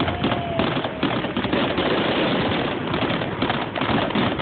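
Fireworks crackling: a dense, continuous rapid crackle of many small pops.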